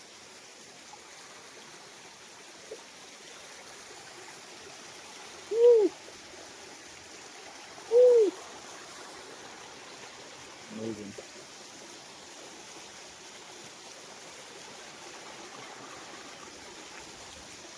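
Mountain waterfall water running and trickling steadily, with two loud short hoot-like cries, each rising and falling in pitch, about six and eight seconds in.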